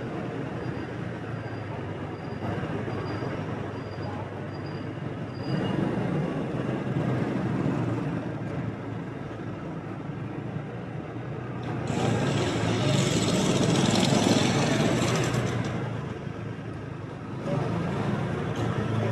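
Motorbike riding through city traffic: a steady engine and road noise, with a louder rush of passing traffic from about twelve to seventeen seconds in. A faint regular ticking sounds over the first five seconds.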